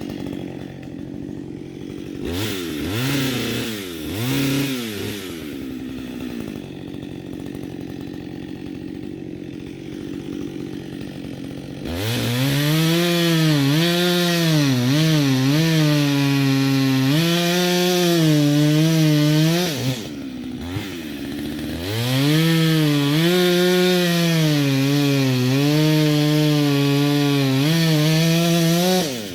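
Chainsaw idling with a few quick throttle blips, then run at full throttle through wood in two long cuts, the second starting soon after the first ends; the engine pitch sags and recovers as the chain bites under load.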